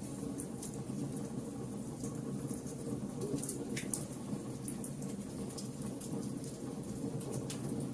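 Fire crackling: scattered sharp pops and snaps over a steady low noise of burning flames.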